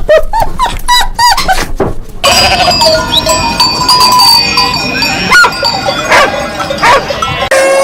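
Birds squawking in quick repeated calls for about two seconds, then livestock bleating with steady ringing tones over it, and a rooster starting a crow near the end.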